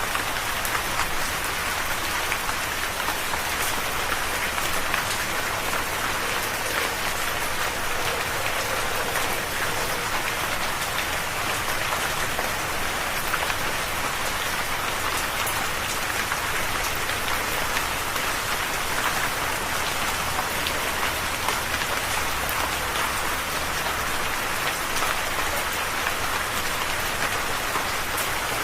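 Steady rain falling and pattering on a surface, with many small drop ticks over an even hiss.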